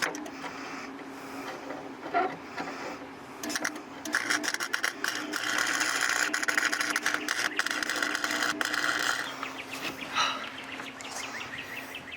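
Electric welding arc crackling as a bead is laid on the floor pan's sheet steel: short sputters first, then a steady crackle of about five seconds starting about four seconds in. A steady low hum runs underneath.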